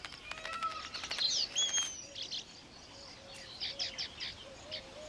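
Weaverbirds chattering: scattered high chirps and a couple of falling whistled notes, then a quick run of scratchy calls about halfway through.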